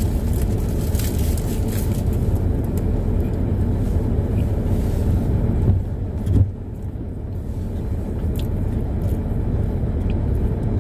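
Steady low rumble of a car, heard from inside the cabin, with a few faint ticks. There is a brief louder bump about six seconds in, after which the rumble is slightly quieter.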